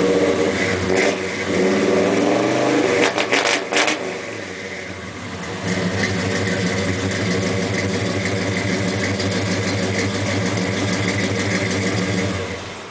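1970 Chevrolet C-10's 350 small-block V8 revving up and back down in the first few seconds, then settling into a steady idle that stops suddenly near the end.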